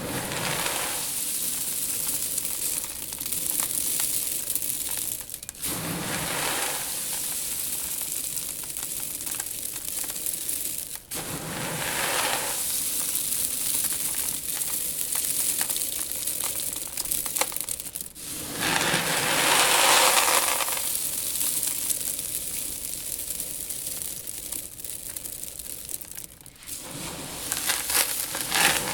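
Loose seed shifting and rustling in a tank, a steady dry hiss of many small grains moving, swelling louder every several seconds as the seed is stirred harder, the longest swell about two-thirds of the way through.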